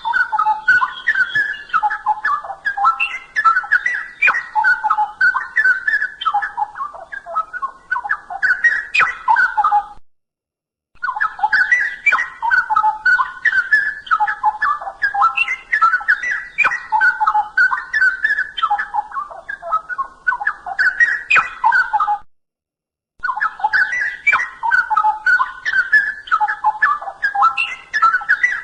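Straw-headed bulbul singing its loud, rich warbling song in a continuous run of fluid whistled notes. The song breaks off twice for about a second of silence.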